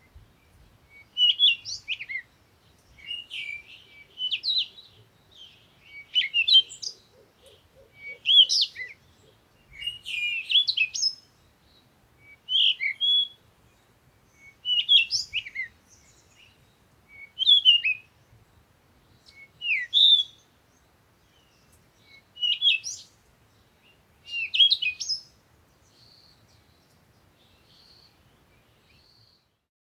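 A songbird singing short, high, warbled phrases, one about every two seconds, with a pause between each. After about 25 seconds the song stops, leaving a few faint notes.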